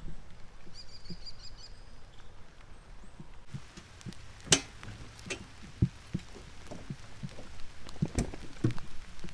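Rain falling, with irregular drops tapping and dripping on a nearby surface and a few louder drops now and then; a bird gives a short run of high chirps about a second in.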